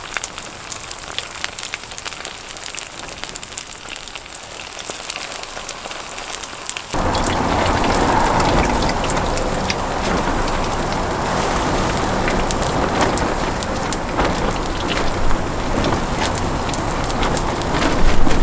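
Oil crackling and sizzling in a frying pan as Korean pancakes (kimchi buchimgae and pajeon) fry. The sizzle turns suddenly louder and fuller about seven seconds in.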